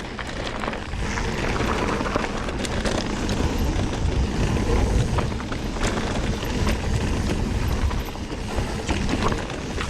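Mountain bike rolling fast down a dirt trail: steady tyre rumble and wind buffeting the microphone, with scattered sharp clicks and rattles from the bike over bumps.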